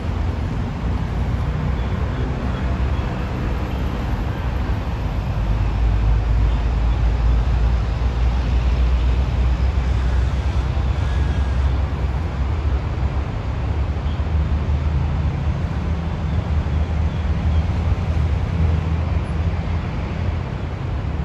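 Steady low rumble of city road traffic, heaviest in the bass and swelling a little in the middle.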